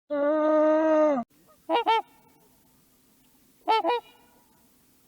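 A long, steady animal call lasting about a second, followed by two short two-note honks about two seconds apart.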